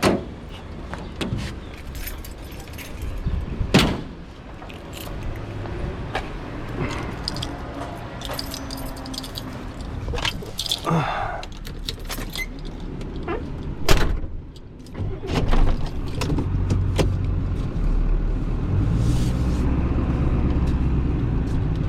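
Clatter and knocks, with a couple of sharp thuds, then a vehicle engine running steadily from about two-thirds of the way in.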